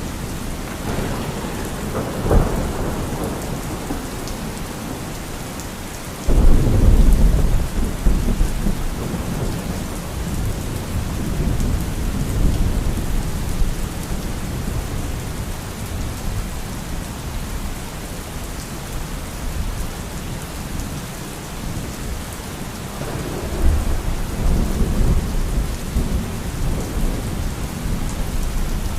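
Thunderstorm: steady rain with thunder. A short crack comes about two seconds in. A loud clap starts suddenly about six seconds in and rumbles on for several seconds, and another rumble swells up near the end.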